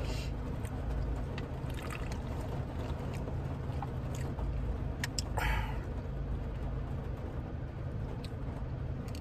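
Steady rain noise heard from inside a vehicle's cab, over a low steady hum, with a brief hiss about five seconds in.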